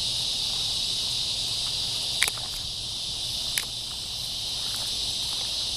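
Steady high-pitched chorus of insects, with two sharp clicks, one about two seconds in and one about three and a half seconds in.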